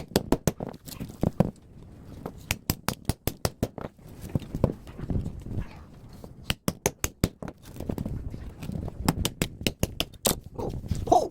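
Runs of quick, sharp knocks at about five a second, with short pauses between the runs, from work on a scrapped air-conditioner outdoor unit. A dog barks near the end.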